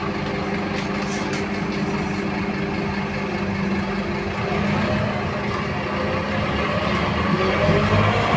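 Scania K230UB city bus's diesel engine running, heard from on board, with a steady low drone and a whine that rises in pitch over the last few seconds.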